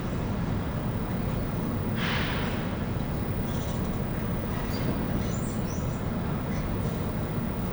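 Escalator running with a steady low rumble amid railway-station background noise, with a brief hiss about two seconds in and a few faint high squeaks in the middle.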